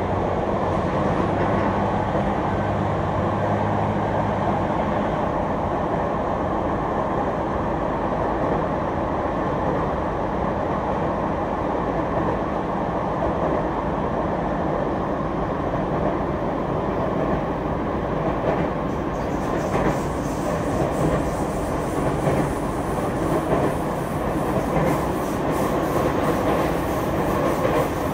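Sotetsu 10000 series electric commuter train, with Mitsubishi IGBT-VVVF drive, heard from inside the passenger car while running on the line: continuous running noise of the car and its wheels on the rails, with a low steady motor hum in the first few seconds. A thin high hiss joins in about two-thirds of the way through.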